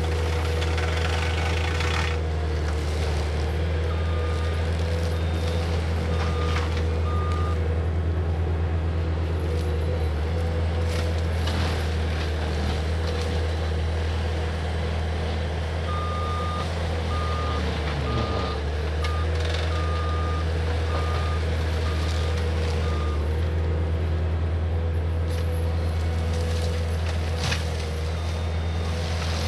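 Cat 259D compact track loader's diesel engine running steadily at high revs with a whine over its low drone. Its backup alarm beeps in spells as it reverses.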